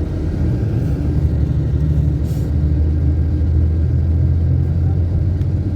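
Motor vehicle on the road, a steady low rumble of engine and road noise, with a short hiss a little over two seconds in.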